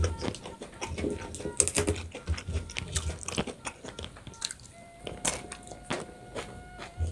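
Close-miked eating sounds: a man chewing a mouthful of rice and fried fish with wet smacks and irregular crunchy clicks, while his fingers pick up more rice from a banana leaf.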